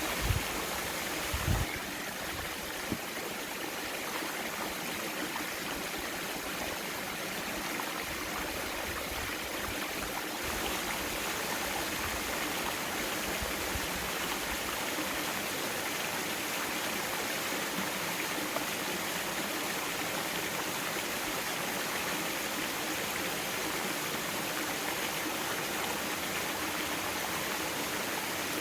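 Mountain valley stream water flowing in a steady, even rush. A few brief low thumps sound in the first three seconds.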